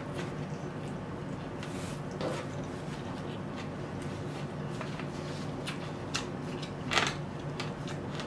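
Close-up chewing and soft mouth clicks from someone eating a mouthful of food, over a steady low hum. About seven seconds in there is one louder rustle, as a paper napkin is taken up.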